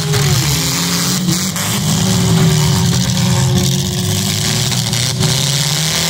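Demolition derby cars' engines running loud together, one of them dropping in revs just after the start and picking back up about a second and a half in, over a steady rush of engine and exhaust noise.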